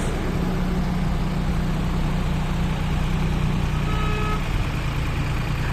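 Tractor diesel engine running steadily with a low, even hum, and a brief high tone about four seconds in.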